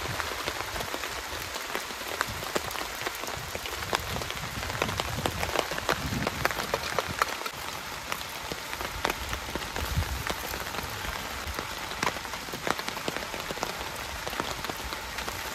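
Steady rain patter mixed with bacon sizzling in a pan: an even hiss full of small crackling ticks.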